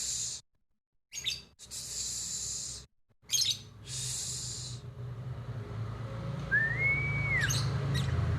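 Birds chirping, a dense high chatter cut off abruptly twice, then one clear whistled call that rises, holds and drops, over a low steady hum.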